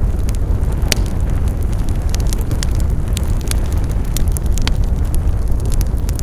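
Wood fire burning: a steady low roar with irregular sharp crackles and pops, the loudest pop about a second in.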